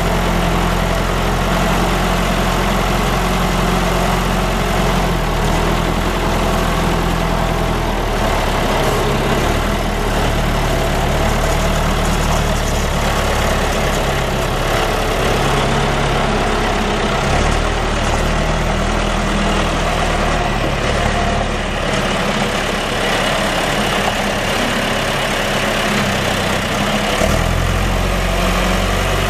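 John Deere JD310-A backhoe's four-cylinder diesel engine running steadily, its low note shifting in pitch a few times.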